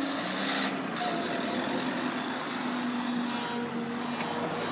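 Road vehicles starting up and driving over the level crossing as it reopens after the barriers lift: engines running and tyre noise.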